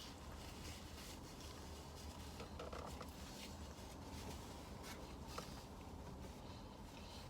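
Faint chewing of a burger, with a few soft clicks and small mouth sounds over a steady low hum.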